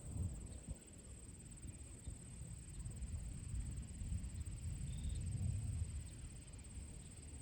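A steady high-pitched cricket trill over a low, swelling rumble of wind gusts, with a couple of faint short chirps.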